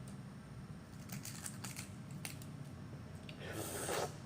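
Small clicks and crackles of a balut eggshell being picked apart by hand, then a short hissing rustle near the end.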